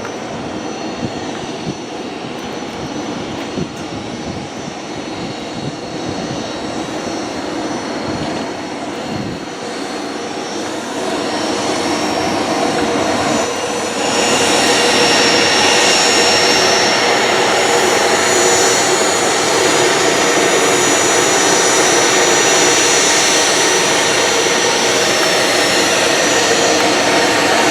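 Jet airliner engines running, growing louder partway through and then jumping to a loud, steady rush with a high whine.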